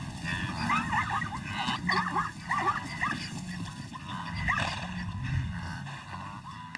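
A run of short, high animal calls, each bending up and down in pitch, several a second and thinning out near the end, over a steady low background rumble.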